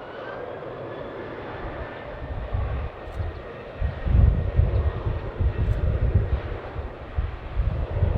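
Jet airliner engines: a steady rush with a faint, slightly falling whine as the aircraft passes. Wind buffets the microphone in gusts from about four seconds in.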